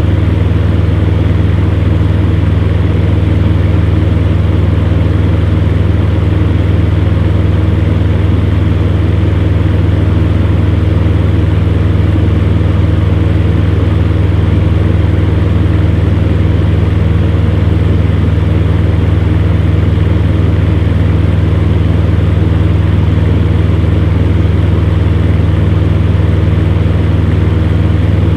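Electric fan heater running steadily: a low motor hum with a few steady tones over an even rush of blown air.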